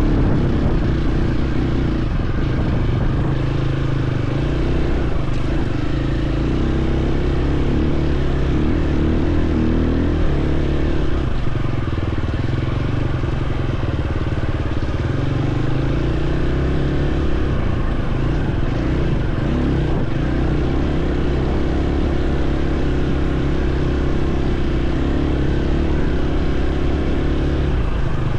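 Dirt bike engine running while riding a trail, its note shifting up and down with the throttle several times.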